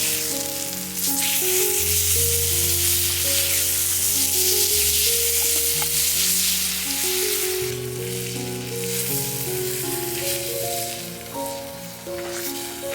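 Food sizzling in a frying pan, louder in the first half, under background music with slow held notes.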